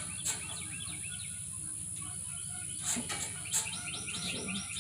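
A songbird singing fast runs of high chirps, with a few sharp clicks about a quarter second in and twice around three seconds in, over a steady high-pitched insect-like whine.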